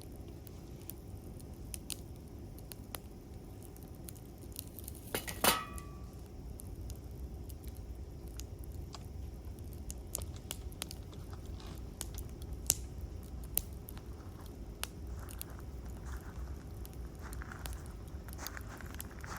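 Campfire wood burning: scattered sharp crackles and pops over a low, steady rumble, with one louder pop about five seconds in.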